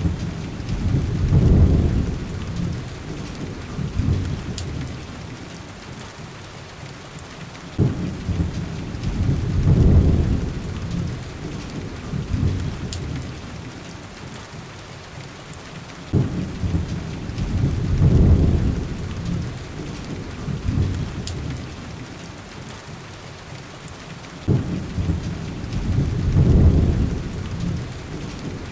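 Steady heavy rain with rolling thunder: four deep rumbles about eight seconds apart, each breaking sharply, swelling for a couple of seconds, then fading back under the rain.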